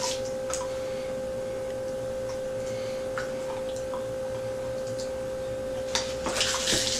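A steady, even hum, with scattered faint clicks and a short rustle about six seconds in.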